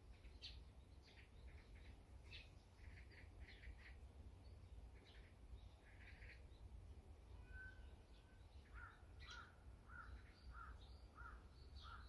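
Faint wild bird calls: scattered short chirps and twitters, then from about nine seconds in one call repeated over and over, roughly every half second.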